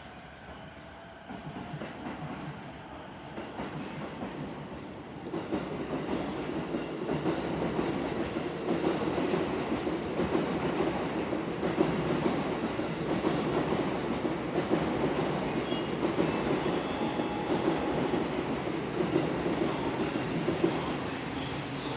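Electric train running through the station past the platform: its rumble and wheel clatter build over the first few seconds, then hold loud and steady.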